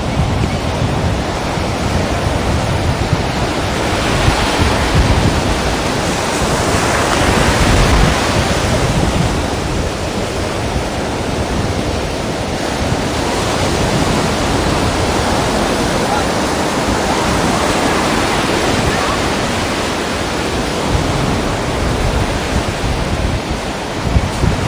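Sea waves surging and breaking against rocks: a continuous rush of surf that swells every few seconds.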